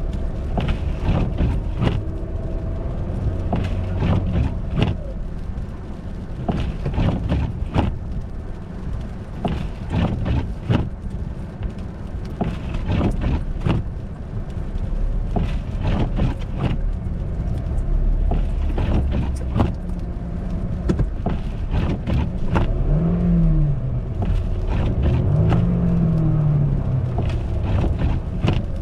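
Car on an icy, snowy road: a steady low rumble broken by frequent short knocks and crunches. Twice, late on, the engine pitch briefly rises and falls.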